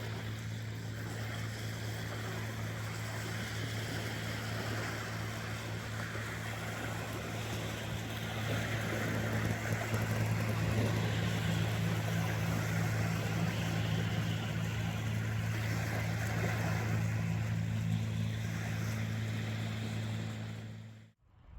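A steady low engine hum over a rushing noise, a little louder from about eight seconds in, cutting off abruptly just before the end.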